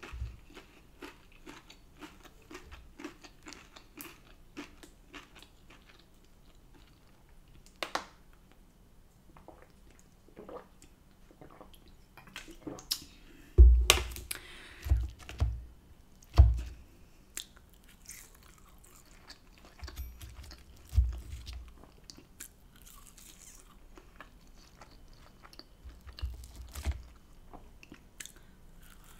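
Close-up chewing and crunching of food, homemade chips and salad, with many small mouth clicks throughout. Several dull thumps come in clusters around the middle and again near the end.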